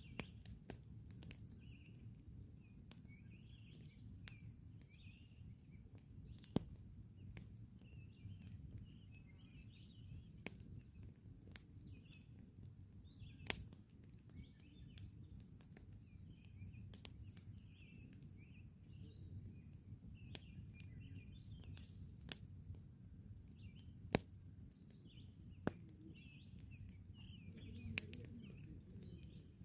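Campfire crackling faintly, with sharp pops scattered through and a few louder snaps. Small birds chirp in the background throughout.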